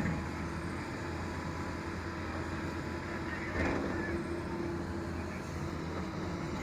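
Doosan DX225LCA excavator's diesel engine running steadily, with a brief swell about three and a half seconds in.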